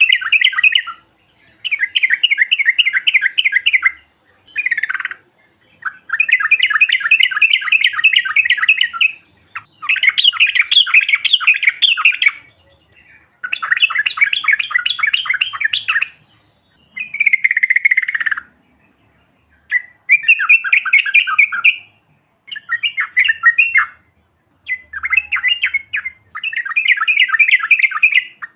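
Yellow-vented bulbul (trucuk) singing: a string of rapid chattering trill phrases, each one to three seconds long with short pauses between, about a dozen in all, one of them sliding down in pitch partway through.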